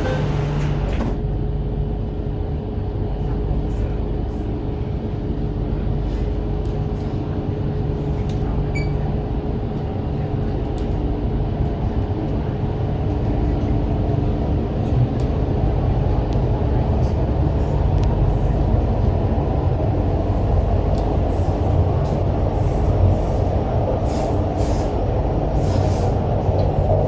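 MTR Island Line Q-Train running through the tunnel between stations: a steady rumble of wheels on rail with a thin, steady whine from the traction equipment in the first half. The noise grows a little louder about halfway through as the train picks up speed.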